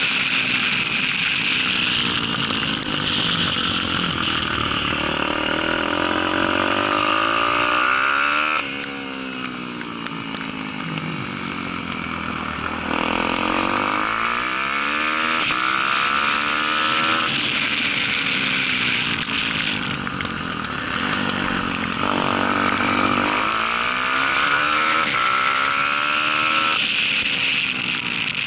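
Daytona 190 four-stroke single-cylinder pit bike engine at racing revs, accelerating through the gears and then dropping off as the throttle shuts for corners, its pitch rising and falling over and over. The throttle closes sharply three times, about 9, 17 and 27 seconds in.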